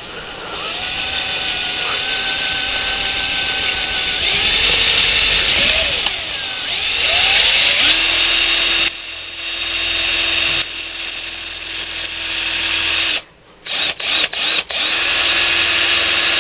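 Power drill running with its bit pressed sideways into the exhaust port wall of a Yamaha Tri-moto 175 two-stroke cylinder to cut an angled starting divot, the motor's pitch rising and falling under load. About 13 seconds in it stops, is blipped on and off a few times, then runs steadily again.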